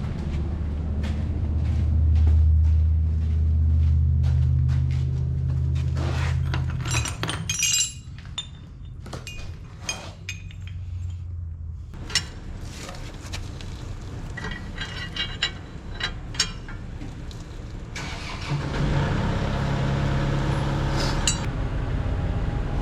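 A motor runs steadily for several seconds and stops. Then come a series of sharp metallic knocks and clinks, like a part being tapped back into place and a nut fitted, before a motor runs again near the end.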